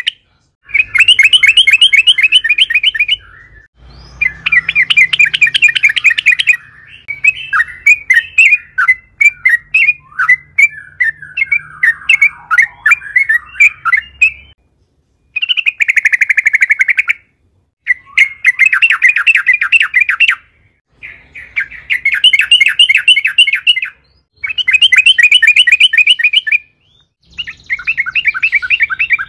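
Yellow-vented bulbul (trucukan) singing loudly in rapid, rattling trilled phrases, each about two to three seconds long with short pauses between. A looser, bubbling chatter runs from about a quarter to halfway through. This is the long rolling 'ngerol' song used as a lure to set other bulbuls singing.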